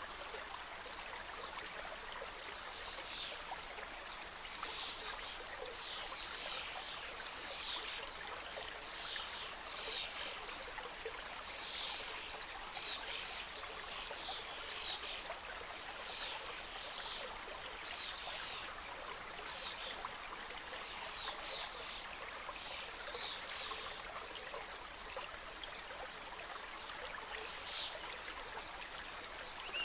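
Mountain stream flowing steadily over rocks, with a bird singing short, high notes over it, repeated about once or twice a second through most of the stretch.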